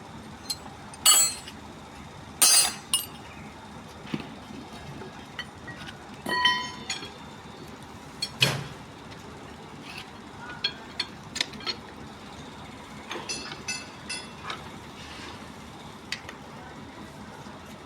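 Metal tools and engine parts clinking and knocking against each other while a diesel truck engine is being taken apart, some strikes leaving a short ringing tone, with a cluster of light ticks near the end.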